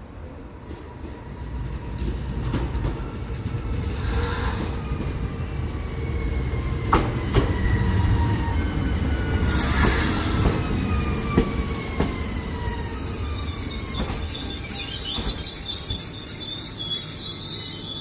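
Alstom Régiolis B 84500 TER multiple unit pulling into the station and braking to a stop. A whine falls steadily in pitch as it slows, wheels click over rail joints, and a high-pitched squeal rises as it brakes in the second half.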